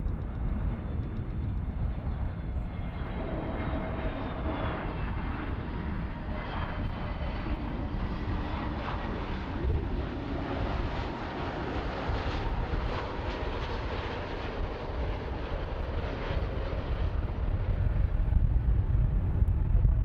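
Jet aircraft engines running as a plane moves near the airport: a steady rush with a faint turbine whine, growing louder near the end.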